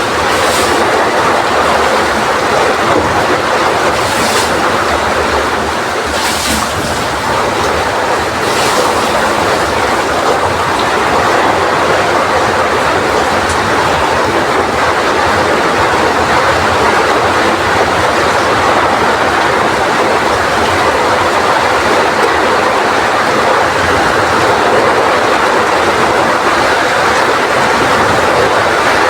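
Heavy rain falling steadily with strong wind, a dense continuous rushing noise. A few brief, higher hissing surges come in the first nine seconds.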